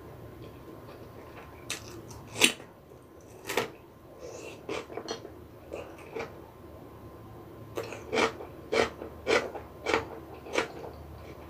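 Crisp crunching of raw cucumber being bitten and chewed close to the microphone. There are two loud bites a couple of seconds in, then a run of crunches about twice a second in the second half.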